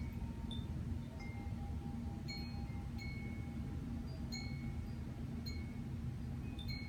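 Wind chimes tinkling, with single high ringing notes at several pitches struck irregularly, over a steady low hum.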